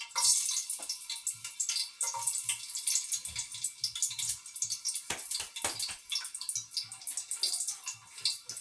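Washed ingredients hitting hot oil in a cooking pot and sizzling with a dense crackle that jumps up at the start. A few sharp knocks come about five to six seconds in.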